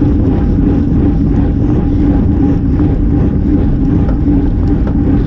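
Steady rush of wind and road noise from a road bicycle riding at race speed, picked up by a GoPro on the bike, with a constant low hum.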